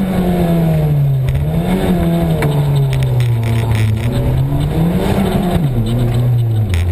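Rally car engine heard from inside the cockpit, driven hard on a stage: the revs rise and fall, climbing around two seconds in and again around five seconds, then drop sharply just before the end.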